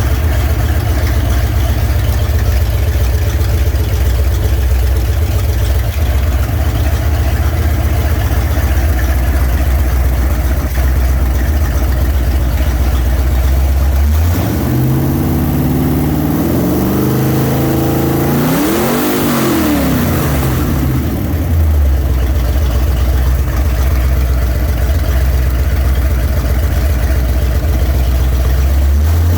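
Ford 351 Windsor V8 with a roller cam idling steadily, then revved up once about halfway through and let fall back to idle a couple of seconds later.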